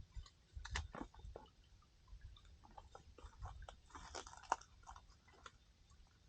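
Campfire crackling: faint, irregular pops and snaps of burning firewood, busiest about four seconds in, over a low rumble.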